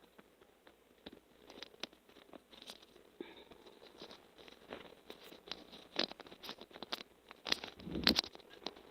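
Faint, irregular light clicks and short rustles, a little louder in the second half.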